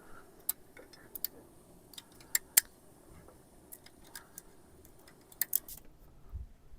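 Campfire crackling: irregular sharp pops and snaps, the loudest a pair about two and a half seconds in and a cluster a little after five seconds.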